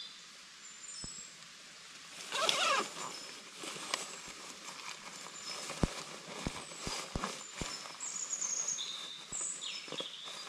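Small birds giving short, high, downward-gliding chirps again and again, over irregular sharp ticks like raindrops striking the camera. There is a brief rustle about two and a half seconds in.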